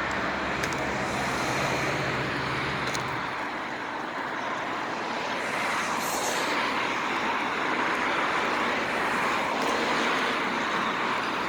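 A car driving along, with a steady rush of road and wind noise and a low engine hum that fades after the first few seconds.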